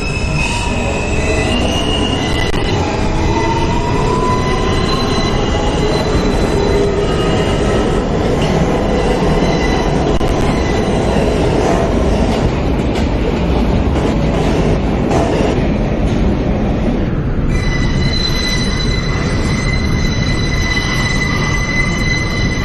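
New York City subway J train running between stations, heard from inside the car: a steady rumble of wheels on the rails with high-pitched wheel squeal. A rising whine comes early on, and the squeal tones grow steadier and clearer from about three-quarters of the way through.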